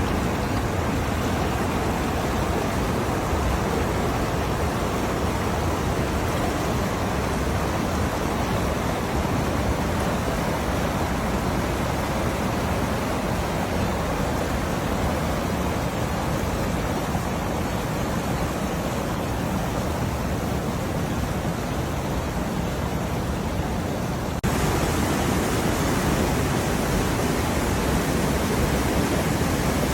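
Waterfall on the River Swale, a steady loud rush of falling water. About 24 seconds in, the rush turns abruptly a little louder and brighter.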